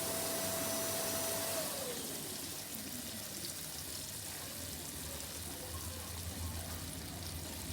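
Chicken wings frying in a pot of hot oil, a steady sizzle. In the first two seconds a steady hum slides down in pitch and fades out.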